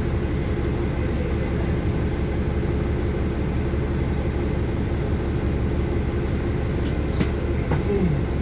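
City bus heard from inside the cabin while under way: a steady low rumble of the engine and running gear. A couple of sharp clicks or rattles come near the end.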